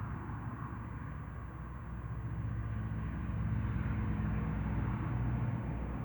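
A motor vehicle's low engine hum, growing louder from about halfway through.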